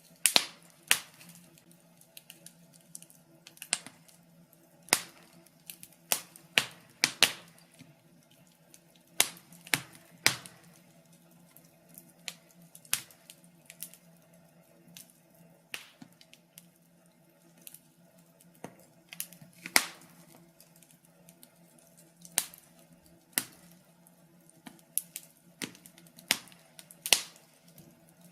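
Wood fire in a fireplace crackling: irregular sharp snaps and pops, loud and faint ones mixed, a burst every second or so.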